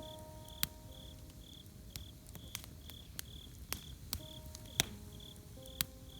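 Campfire crackling with a handful of sharp pops, over crickets chirping steadily about twice a second. Soft sustained background-music notes come in at the start and again after about four seconds.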